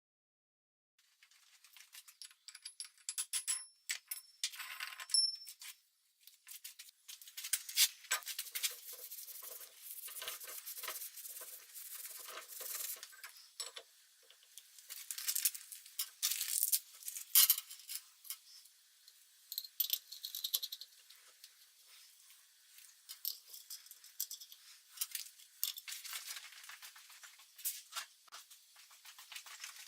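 Small metal parts and hand tools clinking, rattling and scraping in short irregular bursts, with no machine running.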